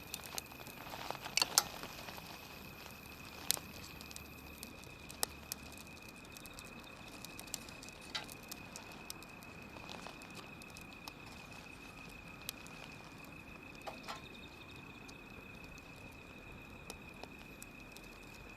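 Wood fire crackling with scattered sharp pops, the loudest a quick cluster about a second and a half in, over a faint steady high whine.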